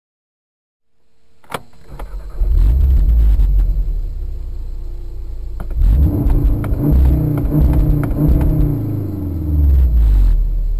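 Volkswagen Golf R (Mk7) with its turbocharged 2.0-litre four-cylinder running, a heavy low rumble. The sound fades in about a second in, with a sharp click, and is loud from about two and a half seconds in.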